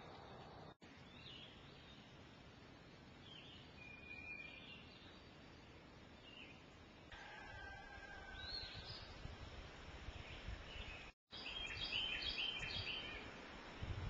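Faint outdoor ambience with scattered bird chirps and short whistled notes, and a quick run of repeated chirps near the end. The sound cuts out for an instant twice.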